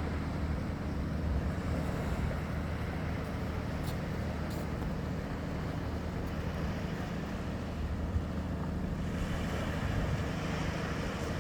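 Boat engine running steadily with a low hum, over wind and water noise.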